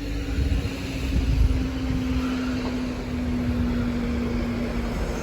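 Southeastern Class 395 'Javelin' electric multiple unit running past, a steady humming whine that sinks slightly in pitch over a low rumble of wheels on rail.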